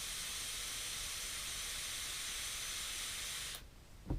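Draw on a Footoon Aqua Pro rebuildable tank fired at 40 watts: a steady hiss of air pulled through its four open airflow holes over the vaporising coil. It stops sharply after about three and a half seconds, and a faint click follows near the end.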